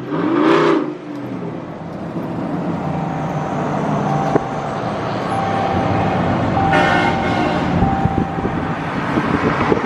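Engine and road noise in freeway traffic with vehicle horns honking: a short blast that rises and falls in pitch about half a second in, then a steady horn tone sounding on and off, loudest about seven seconds in.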